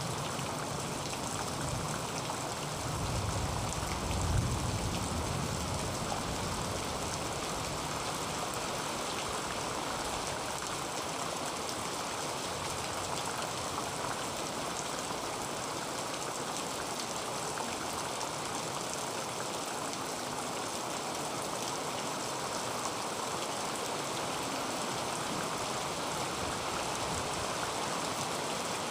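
Heavy rain falling steadily on a tin roof, an even hiss of drops. A brief low rumble swells and fades about four seconds in.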